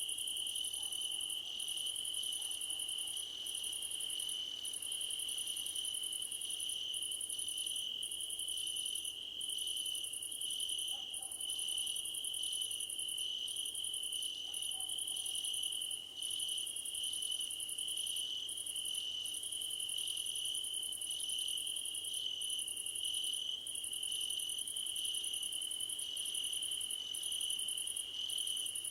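Chorus of field crickets chirping: one steady high trill, with a second, even higher insect song that pauses briefly about once a second.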